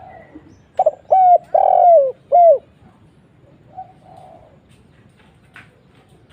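Spotted dove cooing: one loud call of four notes about a second in, the third note long and sliding down in pitch, then a faint coo near the four-second mark. It is the deep-voiced single-'kuk' call type used as a lure to set young spotted doves singing.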